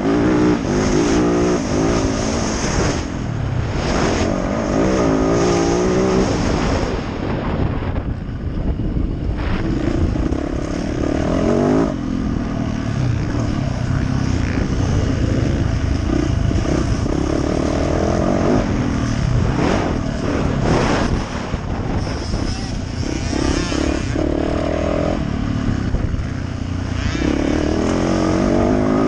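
Yamaha YZ450F single-cylinder four-stroke motocross bike being ridden hard, its engine revving up and falling back again and again with the throttle.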